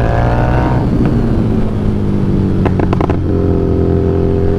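Harley-Davidson Street Rod 750's V-twin engine under way: its pitch climbs, drops off about a second in as the throttle eases, and picks up again near the end after a few short clicks.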